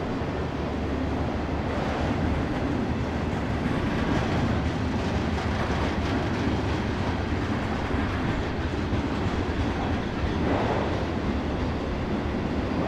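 Union Pacific freight train's cars rolling past: a steady rumble of steel wheels on rail, with faint recurring clacks.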